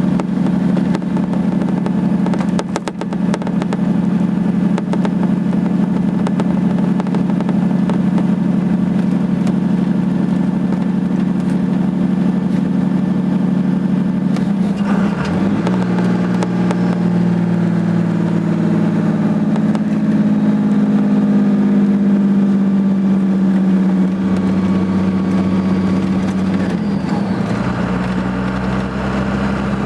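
Dodge Ram 2500's Cummins diesel engine holding the truck back under exhaust braking on a steep downhill grade, a steady drone. The engine note changes and settles at a new pitch about halfway through, and shifts again near the end.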